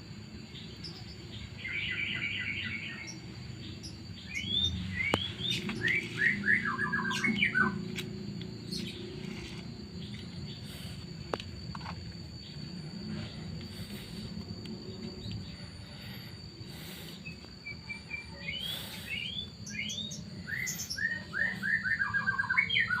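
A songbird singing: several phrases of quick chirps, each run falling in pitch, with a pause of about ten seconds midway, over a steady low hum.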